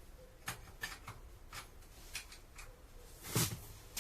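Short clicks and scrapes of the metal tent stove's parts being handled, its legs being readied to fit, with a louder knock about three and a half seconds in.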